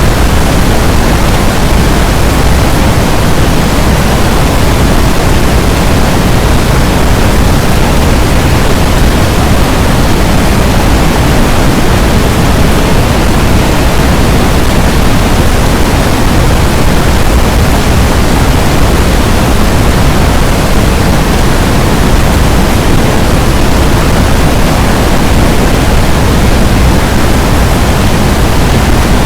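A loud, steady rushing noise spread evenly from low to high pitch, with no change, tones or knocks.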